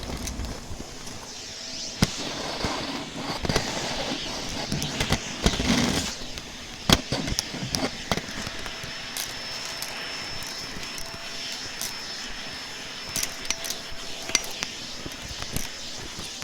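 Scattered sharp clicks and knocks with bursts of rustling, as objects are handled, and a faint steady high whine through the middle.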